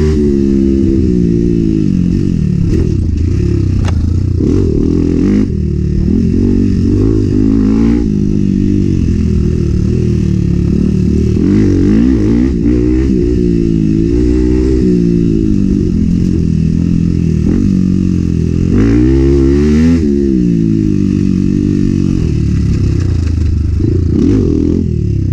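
Enduro dirt bike engine revving hard and falling back over and over as the rider accelerates, shifts and brakes along a rough trail, with scattered sharp knocks.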